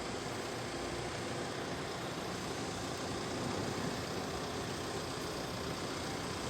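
A motor vehicle engine idling steadily, an even hum with no change in speed.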